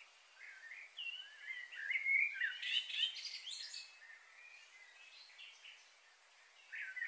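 Songbirds chirping and warbling in quick, overlapping phrases over a steady hiss. The calls are busiest from about a second in to past the middle, and pick up again at the end.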